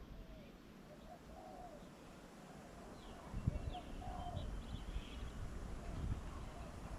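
Doves cooing, a run of low soft coos, with a few short high chirps from a smaller bird in the middle and a low thump about three and a half seconds in.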